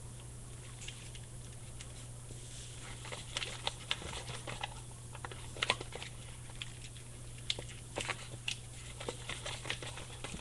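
Latex 260 modelling balloon being twisted and handled, giving scattered short squeaks, creaks and rubbing clicks as the small bubbles are twisted and slip back.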